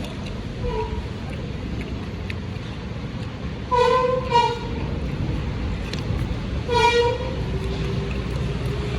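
A horn tooting briefly twice, about three seconds apart, each toot slightly wavering in pitch, over a steady rumble of road traffic.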